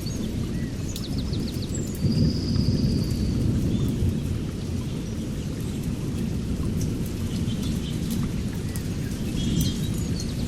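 Thunder rumbling through a rainstorm, a continuous low roll that swells a little about two seconds in, with small scattered drop ticks. Birds chirp short trills above it, with one whistled note.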